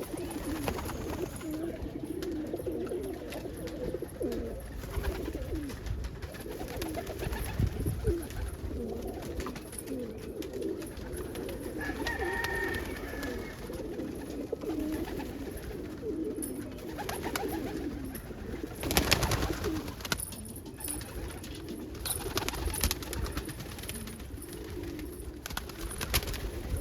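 Many domestic pigeons cooing together in a loft, their low coos overlapping without a break. Sharp clicks and knocks come in among them in the second half, the loudest about two-thirds of the way through.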